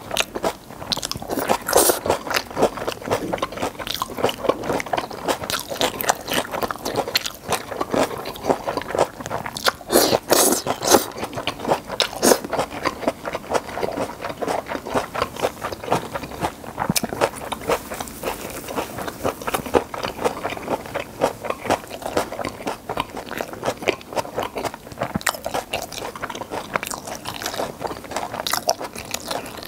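Close-miked chewing and mouth smacking of saucy gochu japchae (stir-fried peppers and meat), a dense run of short wet clicks, with chopsticks scraping and tapping on the ceramic plate.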